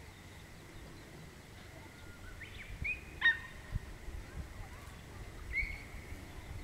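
Bird calls: a few short, sharp whistled calls about two and a half to three and a half seconds in, the loudest near three seconds, and one more near the end, over a low rumble.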